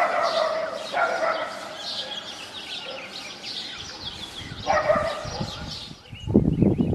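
Small birds chirping continuously, with three short, louder animal calls, dog-like barks: one at the start, one about a second in and one near five seconds. Low rumbling buffeting comes in near the end.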